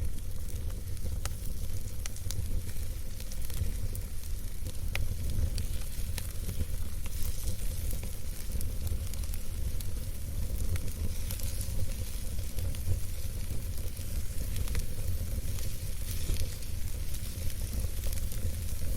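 Wood campfire burning: a steady soft hiss with scattered sharp crackles and pops of the burning wood, over a steady low rumble.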